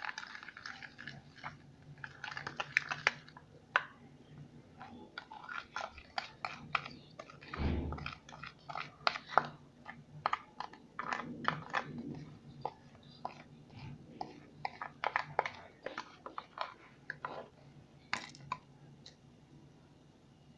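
A sticky homemade slime mixture of paste and salt being mixed, with irregular wet clicks and crackles as it pulls and squelches. A dull thump about eight seconds in.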